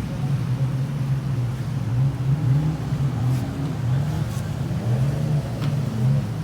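An engine running, its pitch wavering up and down.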